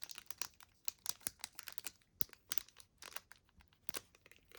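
Pokémon trading cards being handled and set aside: a string of crisp, irregular clicks and crinkles.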